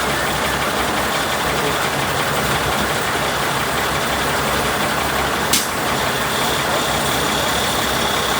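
Truck engine running steadily, with a single sharp click about five and a half seconds in.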